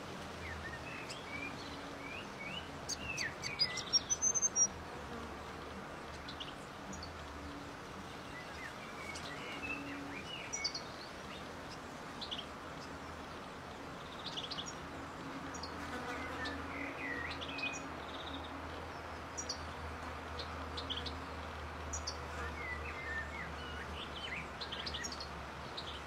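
Birds giving short, high chirps and squeaky calls at scattered moments, loudest in a quick run of calls about three to five seconds in, over a steady background hiss and low hum.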